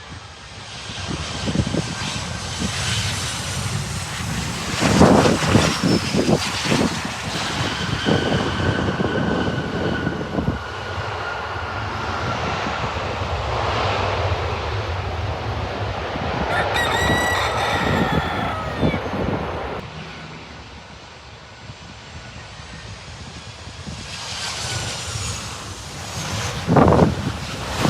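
Boeing 727-225F's Pratt & Whitney JT8D turbofan engines running, a steady jet noise with high whining tones, with gusts of wind hitting the microphone about 5 seconds in and again near the end. A rooster crows about 17 seconds in.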